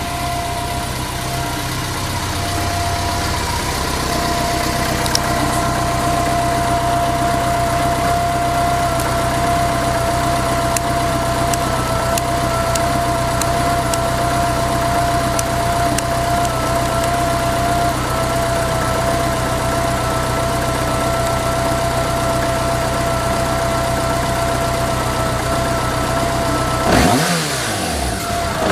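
BMW K1100RS's inline-four engine idling steadily, running smoothly with no abnormal noise. Near the end the throttle is blipped once, the revs rising and falling back.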